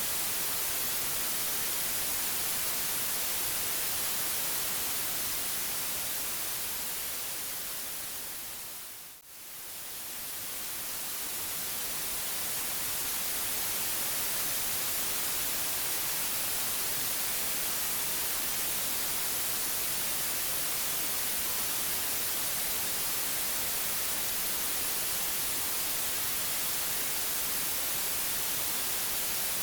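Steady white noise, an even hiss strongest in the highs. It fades down to a brief dip about nine seconds in, then swells back to full level.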